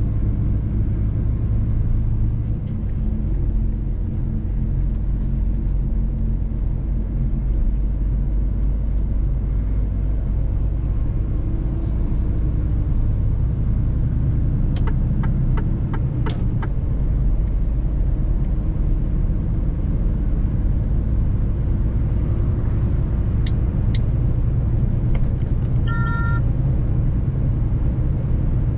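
Mercedes-Benz truck driving, its engine and road noise making a steady low rumble. A few sharp clicks come around the middle, and a short electronic beep sounds near the end.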